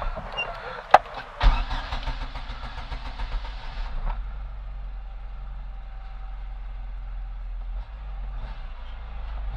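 Chevrolet Tornado's 1.8-litre four-cylinder engine running steadily while throttle-body cleaner is sprayed into the intake: one sharp click about a second in, then a spray hiss for about two and a half seconds over the engine hum.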